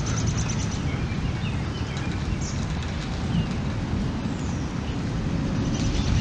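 Wind buffeting the microphone as a steady low rumble, with a few faint bird chirps over it.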